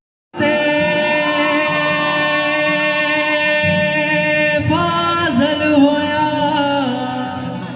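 A singer holding long wordless sung notes. About five seconds in the pitch steps up into wavering turns, then settles lower.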